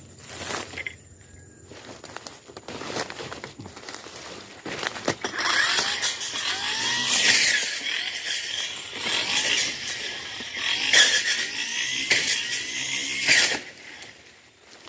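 Tanzu brush cutter's small two-stroke engine revving with rising and falling pitch, starting about five seconds in and stopping shortly before the end.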